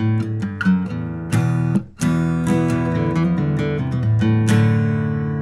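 Intro music: acoustic guitar strumming chords, with a short break about two seconds in and a last chord left ringing near the end.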